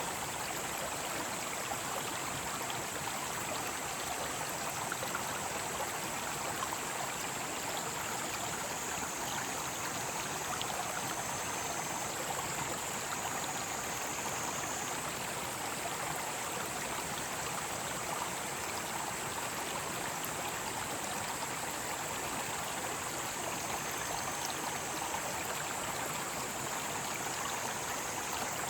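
Mountain stream flowing in a steady wash of water, with a continuous high chorus of cicadas over it.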